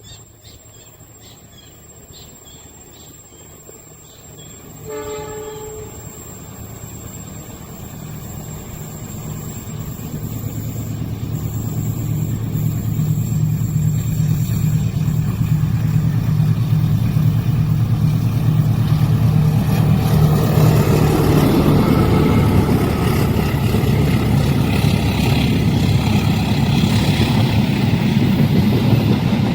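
Diesel locomotive sounds its horn once briefly about five seconds in, then its engine grows steadily louder as the train approaches, with rising wheel and rail noise as it passes from about twenty seconds in.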